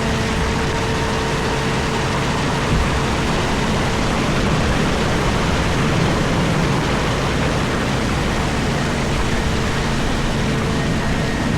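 Komatsu PC4000 mining excavator heard from inside its cab: a steady, loud rush of machinery running, with a few faint steady tones in it.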